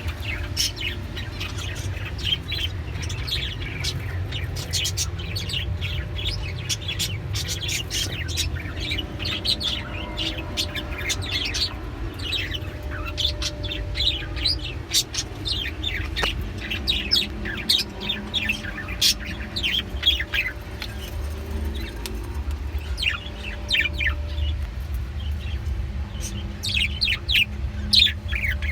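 Several small pet birds chirping continuously, a dense stream of short, quick high-pitched calls, over a low steady hum.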